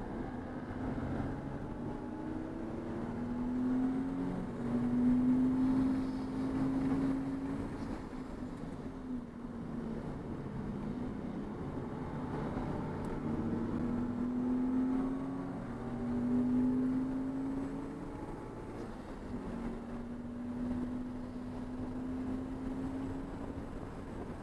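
Racing car's engine under hard acceleration at track speed. Its pitch climbs for several seconds and then drops back, about three times, over steady road and wind noise.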